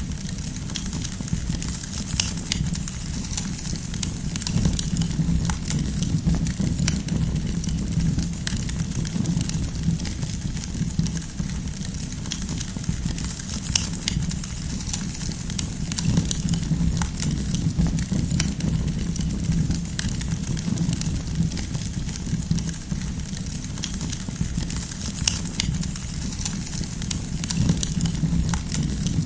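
Campfire burning, with frequent sharp crackles and pops of firewood over a steady low rumble of the flames.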